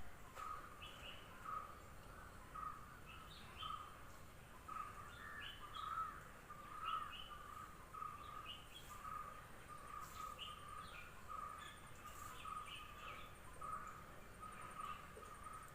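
Birds chirping faintly: short calls repeated about twice a second, with higher chirps scattered among them.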